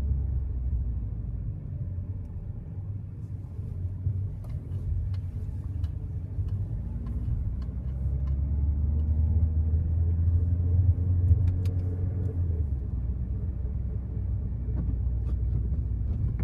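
Low droning rumble from a 2016 Citroën Grand C4 Picasso 1.6 HDi diesel with EAT6 automatic, with a faint bearing-type hum that rises and falls with engine speed and swells about two-thirds of the way through. The noise came from a failed driveshaft and driveshaft bearing.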